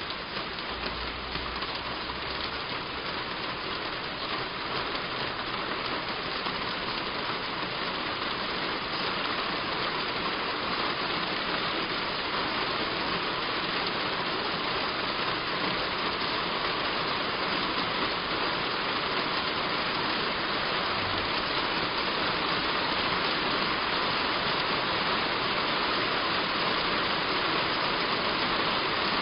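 Heavy rain falling steadily on a roof, growing gradually a little louder.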